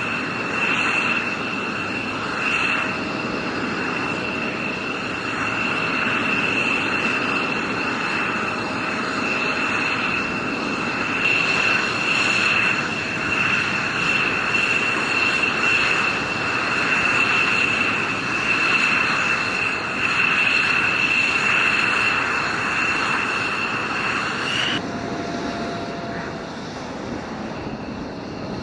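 Steady jet aircraft noise, a continuous rushing with a high-pitched whine, changing abruptly to a thinner, quieter sound about 25 seconds in.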